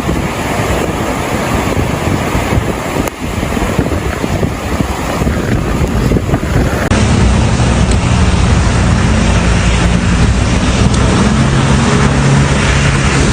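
A steady roar of wind on the microphone and rushing water. About seven seconds in, the footage cuts and a vehicle engine hums steadily under the noise.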